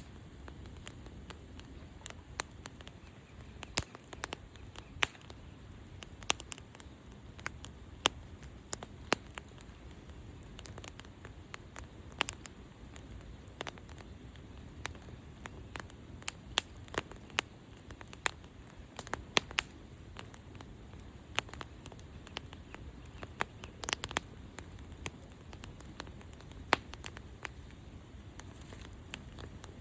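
Wood fire crackling: irregular sharp pops and snaps, several a second, over a low steady rush of burning.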